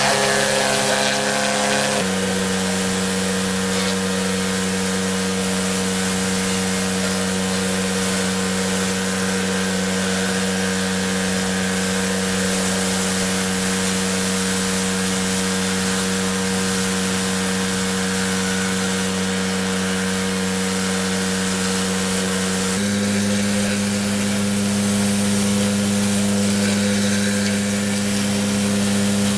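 Pressure washer running steadily, its motor and pump humming under the hiss of the water jet. The hum steps slightly lower about two seconds in and back up near the end.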